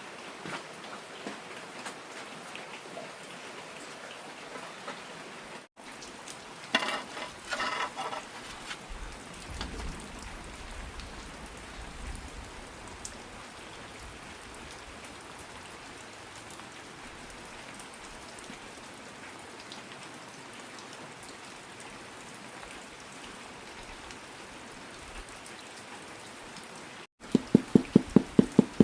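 Steady heavy rain falling. About seven seconds in there are a few short higher-pitched sounds. Near the end comes a loud, rapid run of low pulses, about eight a second.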